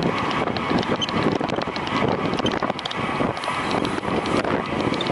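Wind rushing over a bicycle rider's camera microphone at racing speed: a steady, loud rush with light, rapid ticking from the bike running through it.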